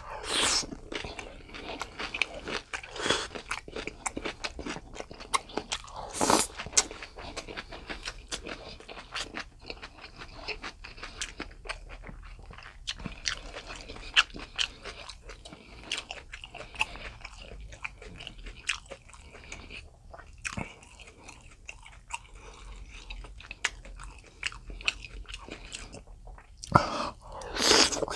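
A person chewing and biting boiled pork slices (suyuk): a steady run of small wet mouth clicks and smacks, with a few louder bites or slurps about half a second in, around six seconds in and near the end.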